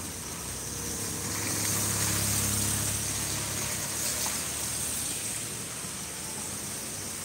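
Car engine running close by in slow traffic on a wet road, its low hum swelling about two to three seconds in, over a steady hiss.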